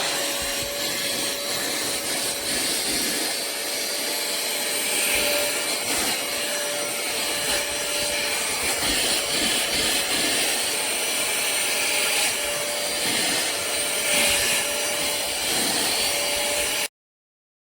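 Cordless handheld vacuum running, a constant whine over a steady rush of noise, cutting off suddenly near the end.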